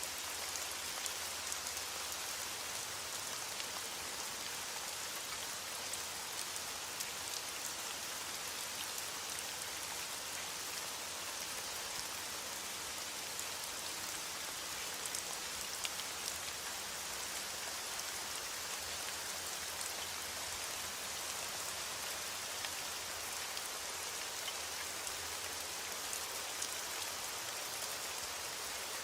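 Steady rain falling, a constant hiss with the fine patter of many small drops striking a surface.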